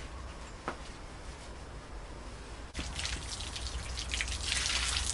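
Water starts running about three seconds in, spraying and splashing onto a dog being bathed. Before that there is only a faint background with one light click.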